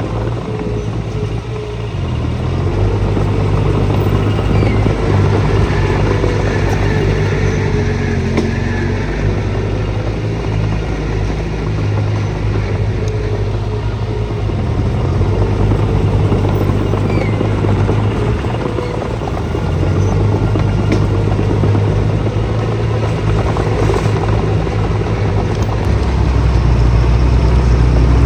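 Diesel engines of earthmoving machinery running under work, the engine note stepping up and down in pitch a few times as throttle or load changes.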